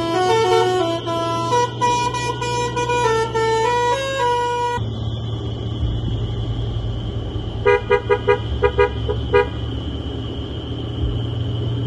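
Truck's multi-tone musical horn playing a tune of stepped notes. About five seconds in, it gives way to a steady engine drone, broken by a quick run of about seven short horn toots.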